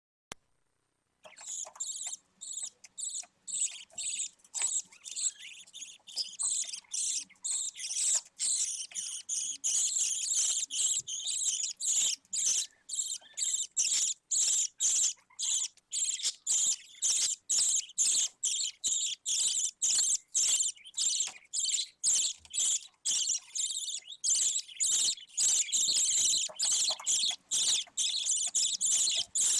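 Budgerigar chicks cheeping: a continuous stream of rapid, high-pitched chirps that starts about a second in.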